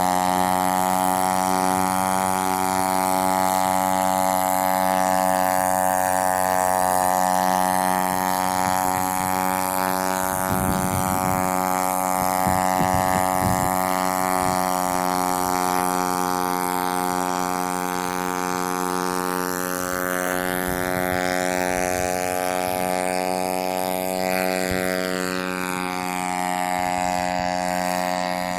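Homemade paramotor's converted Yamaha motorcycle engine driving its propeller, running at a steady speed with an even, unchanging pitch.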